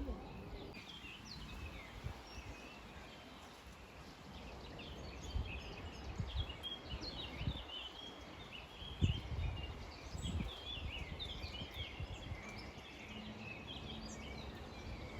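Several small birds chirping and singing in quick, overlapping notes, over a low rumble with a few soft thumps.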